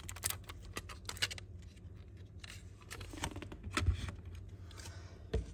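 Small, sharp metallic clicks and clinks from Zippo lighters being handled, most in the first second and a half and again a few seconds in, over a low steady hum.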